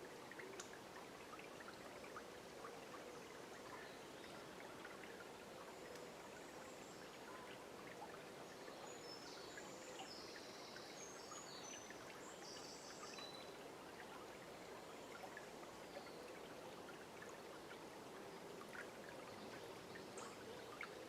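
River water running steadily and faintly over stones, a soft continuous babble with small splashes. A few short, high bird calls sound about halfway through.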